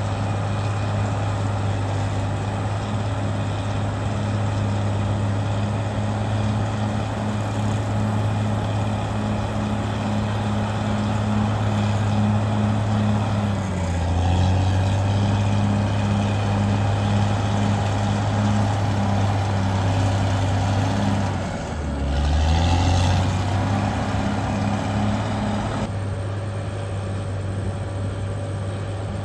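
Caterpillar D6R XL bulldozer's diesel engine running steadily. Twice, about halfway through and again about three quarters through, its pitch sags briefly as the engine lugs under load, then picks back up.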